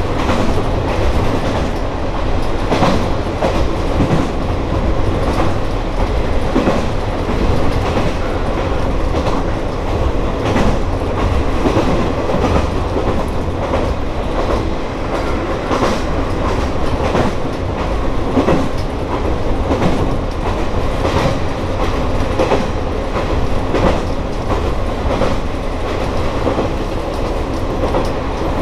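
Kanto Railway Joso Line diesel railcar running at speed, heard from inside the car behind the cab. A steady running rumble with the wheels clicking over rail joints every second or two.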